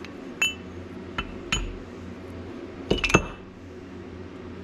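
Sharp, ringing clinks of hard objects being handled, about five of them, with a quick cluster about three seconds in.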